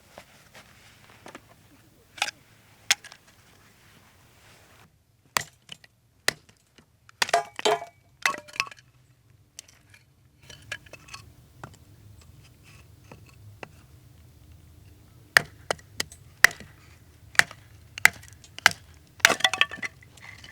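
Scattered sharp clinks and knocks of hard objects being handled, with short rattling clusters about a third of the way in and near the end.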